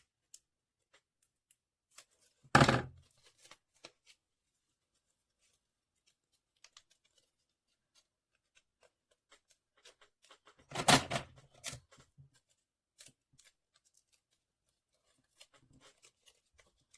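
Paper and tape being handled while assembling a paper model: two short, loud rasping sounds, about two and a half seconds in and again near eleven seconds, with faint paper rustles and small clicks between.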